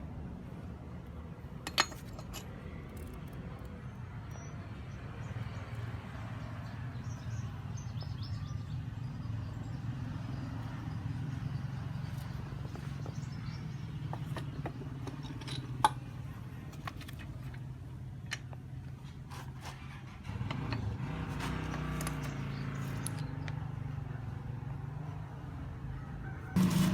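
Steady low motor hum, growing louder about two-thirds of the way through, with a few sharp metal clicks.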